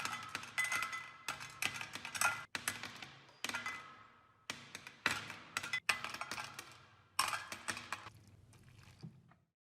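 A run of short, separate clips of metal parts being knocked and handled, cut one after another. Each starts with a sharp clink or knock that rings briefly and fades.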